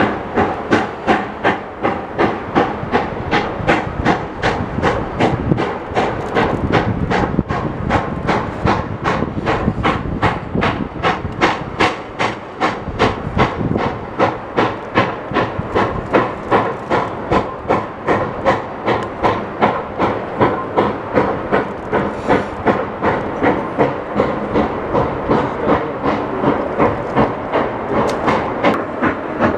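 Reading T-1 class 4-8-4 steam locomotive working hard, its exhaust chuffing from the stack in a steady rhythm of a little over two beats a second over a constant steam hiss.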